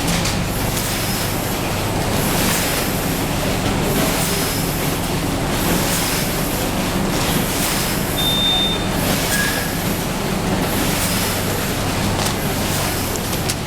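X-ray food inspection machine and its conveyor running, a steady mechanical hum with a short hiss repeating roughly every one and a half seconds. A brief high beep sounds about eight seconds in.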